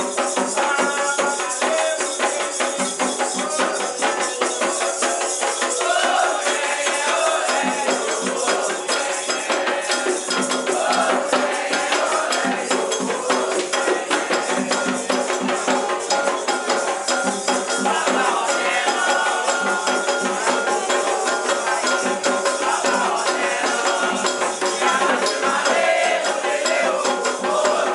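Candomblé ritual music: rattles shaking in a fast, steady rhythm, with voices singing over them from about six seconds in.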